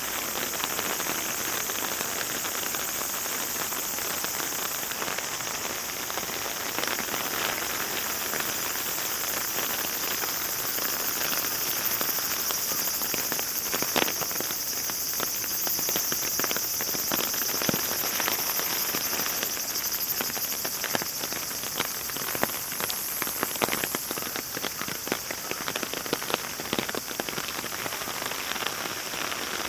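Fairly heavy rain falling steadily, with many sharp close drops ticking and splatting on a nearby surface, coming thicker from about halfway through.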